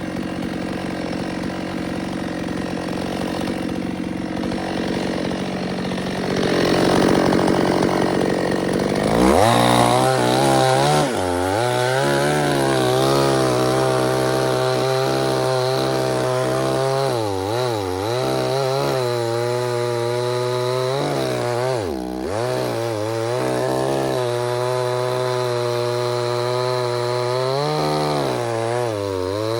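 Two-stroke chainsaw running steadily, then revving up sharply about nine seconds in and held at high speed. Its pitch sags briefly several times, as the engine does under cutting load.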